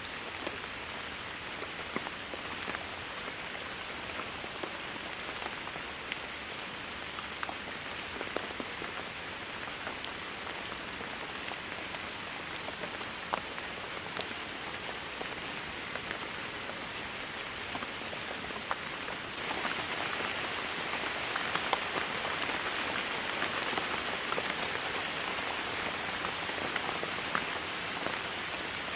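Steady rainfall with scattered single drops ticking out of it; the rain gets heavier and louder about two-thirds of the way through.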